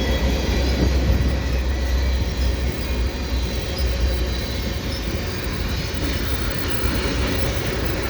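CN freight train rolling past at close range: a continuous rumble of wheels on rail with a heavy low rumble that eases after about five seconds.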